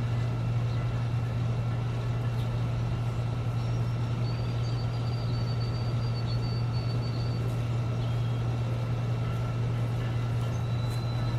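Lawn mower engine running at a steady speed, a constant low hum.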